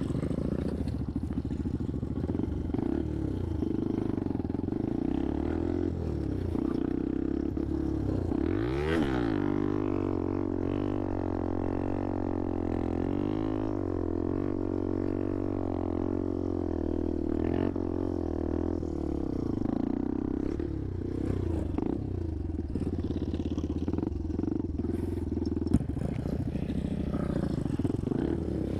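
Motorcycle engine running while riding, its pitch wavering with the throttle; the revs drop and pick back up about nine seconds in. There is a brief sharp click near the end.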